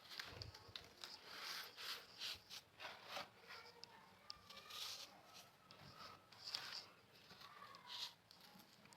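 A crumbly block of salt being pressed and crushed, giving a string of irregular, soft crunches and crackles.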